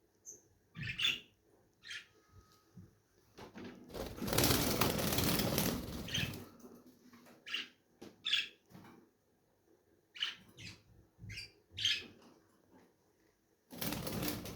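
Lovebirds giving short, sharp chirps scattered through, with a loud burst of wing flapping for about two seconds midway and another brief flutter near the end.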